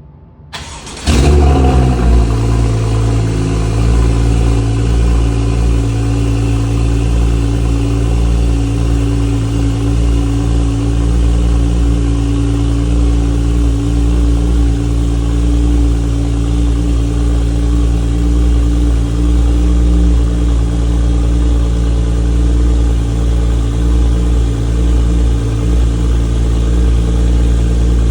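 Porsche 911 Turbo S flat-six with an aftermarket Brilliant Exhaust system cold-starting: it catches about a second in with a brief flare in revs, then settles into a steady, loud cold idle.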